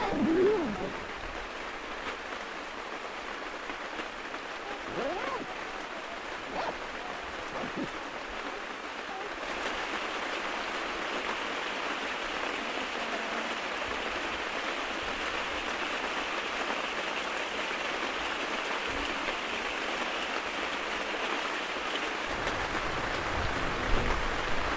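Steady rain falling, a continuous even hiss that grows a little louder and brighter about ten seconds in. A few brief faint calls or yelps in the first several seconds.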